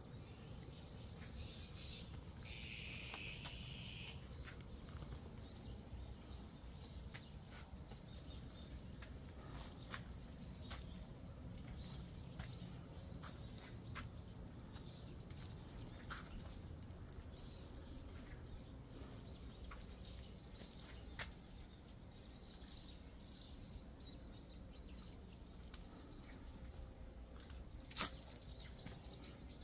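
Faint outdoor ambience over a steady low rumble, with scattered small bird chirps and calls. One denser call lasts about a second and a half, starting about two seconds in. Occasional sharp clicks, the loudest near the end.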